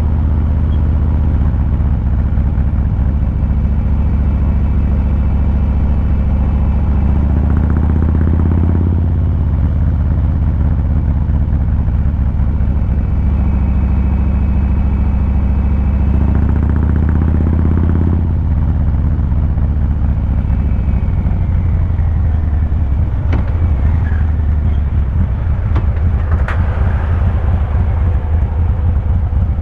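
Harley-Davidson Fat Boy 114's Milwaukee-Eight 114 V-twin exhaust running steadily while riding, with two brief heavier pulls of throttle about eight and seventeen seconds in, then easing off a little.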